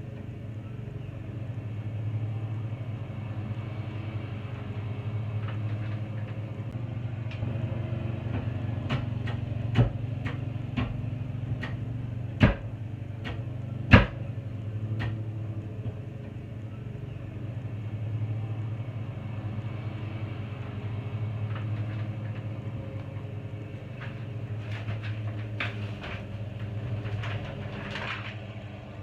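A steady low machine hum with scattered sharp knocks and clicks; the loudest knocks come about ten, twelve and fourteen seconds in, with a run of lighter clicks near the end.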